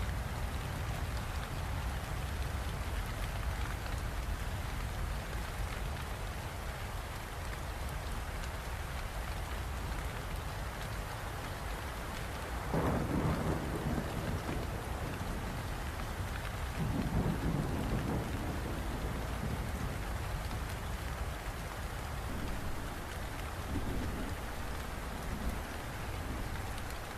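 Steady rain falling, with low rumbles of thunder: the loudest about halfway through and again a few seconds later, a fainter one near the end.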